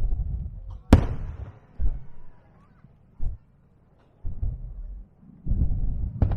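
Aerial fireworks bursting: a run of deep booms a second or so apart, with two sharp, loud cracks, one about a second in and one near the end.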